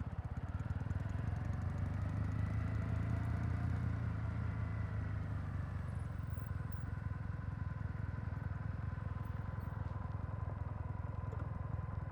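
Kawasaki W800's air-cooled parallel-twin engine idling steadily, the exhaust pulses close to the microphone, swelling slightly a couple of seconds in.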